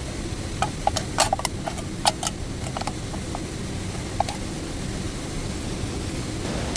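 Steady low rushing of water, with about a dozen irregular sharp pops and clicks over the first four seconds or so. Near the end a brighter, fuller rush of the waterfall comes in.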